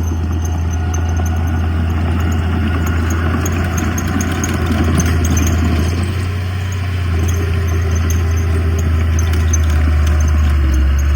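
Diesel engine of heavy earthmoving machinery running steadily, with a strong low drone and rough clatter above it.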